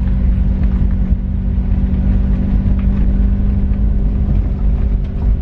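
Loud, steady low rumble with a constant droning hum.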